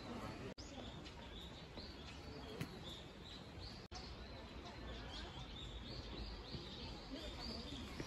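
Small birds chirping repeatedly, faint, over a low steady background rumble. The sound cuts out for an instant twice.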